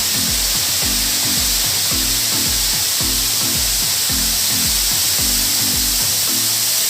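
Steady rushing hiss of falling water from a waterfall, with background music over it that has a steady bass beat of about two notes a second.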